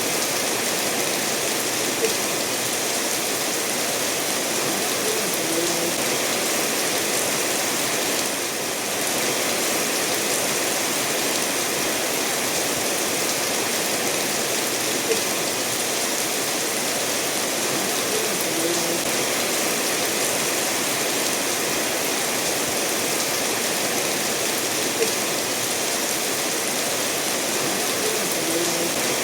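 Steady rain mixed with a stream running over stones, a constant even wash of water noise. Three brief sharper ticks stand out along the way.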